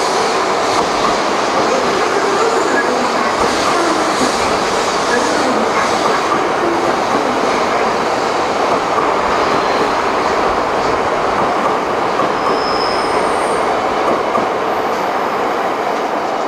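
Shinkansen train running along the station tracks: a steady noise of wheels on rail, with a few short high-pitched squeals about three quarters of the way through.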